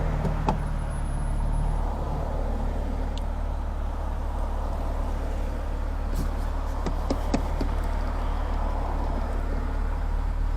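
BMW M4 Competition's S58 twin-turbo straight-six and road noise at a steady cruise, heard inside the moving car as an even low drone with no revving. A few light clicks come about six to seven seconds in.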